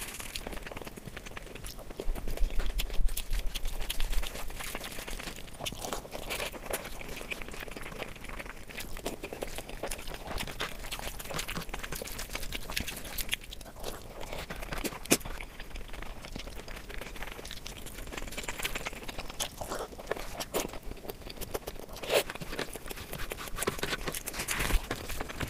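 Close-miked eating sounds: a person chewing and crunching, with wet mouth smacks and fingers squelching through fried rice and sauce-coated balls. The noise is a dense run of irregular clicks, louder for a couple of seconds about two seconds in.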